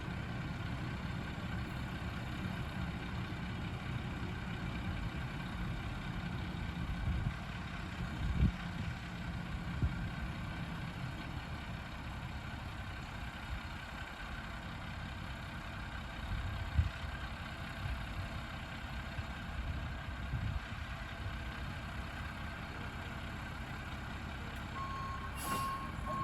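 Garbage truck engine running steadily at low revs, with a few dull thumps along the way. Near the end its reversing beeper starts, a repeated single-pitch beep.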